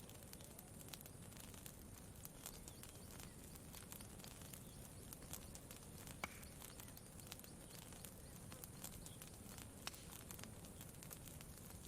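Faint campfire crackling: scattered, irregular small pops and snaps over a low, steady background hiss.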